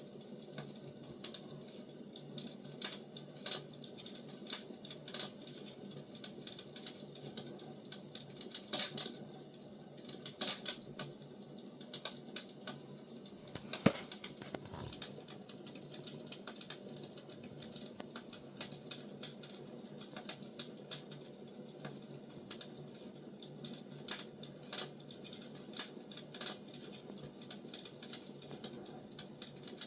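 Firewood burning: irregular small crackles and pops over a low steady rush, with one sharper, louder pop about fourteen seconds in.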